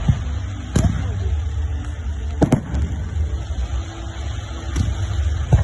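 Fireworks going off in separate sharp bangs: one about a second in, two close together around two and a half seconds, and more near the end, over a steady low rumble.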